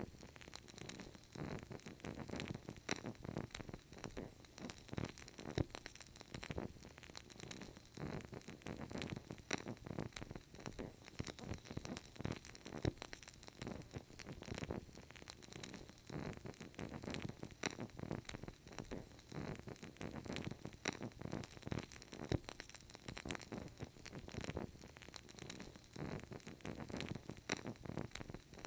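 Burning candle crackling: a dense, irregular stream of small soft crackles and pops over a faint hiss.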